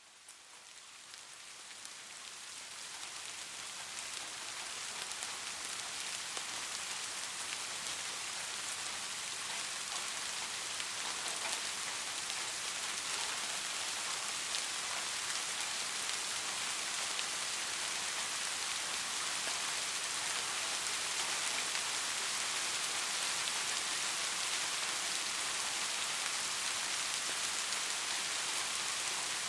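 Steady rain falling, an even hiss of many fine drops, fading in over the first several seconds and then holding level.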